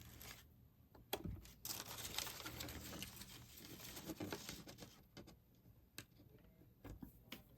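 Faint crinkling of thin plastic packaging as small toy pieces are unwrapped, with a few sharp clicks of small plastic parts being handled.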